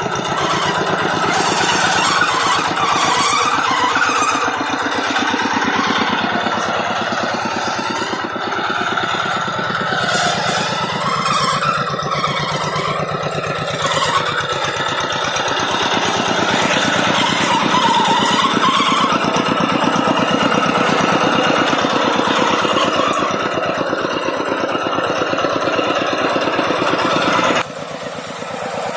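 Farm tractor engine running steadily with a fast, even firing beat. It drops suddenly in level near the end.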